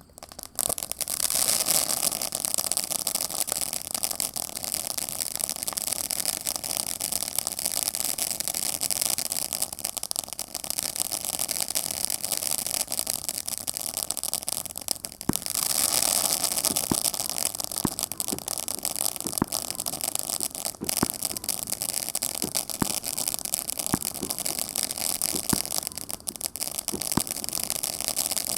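A 1-inch, 34-shot firework cake firing: a loud, continuous hiss of shots launching starts suddenly about half a second in. It breaks off for a moment about halfway, then resumes with scattered sharp pops and crackles.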